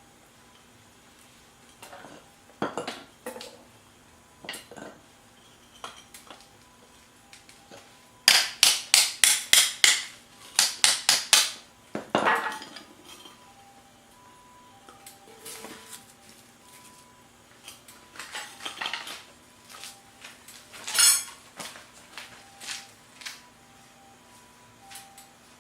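Metal cookware and utensils clinking and knocking against pots and pans. A quick run of about ten sharp clacks comes about a third of the way in, with scattered lighter knocks before and after.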